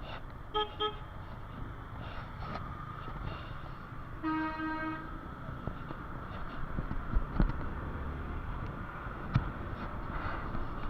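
Vehicle horns in road traffic over steady road and wind rumble from a moving motorbike: two quick beeps near the start, then one longer horn blast about four seconds in.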